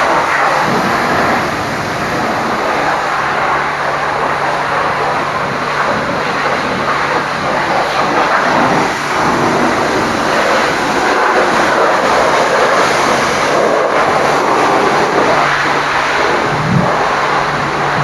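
High-pressure water jet spraying onto a truck at a truck wash, a loud, steady hiss with a low, even hum underneath.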